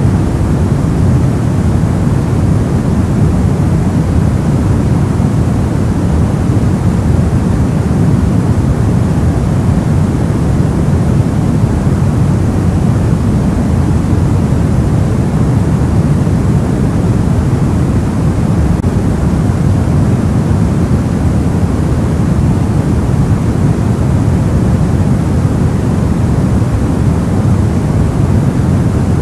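Soft white noise for sleep: a steady, even hiss-rumble weighted toward the low end, with no changes in level.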